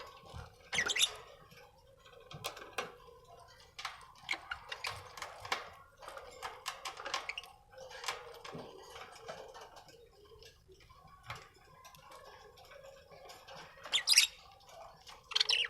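Budgerigars chirping and chattering: a run of short clicks and soft chirps, with a few louder, sharp high chirps about a second in and again near the end.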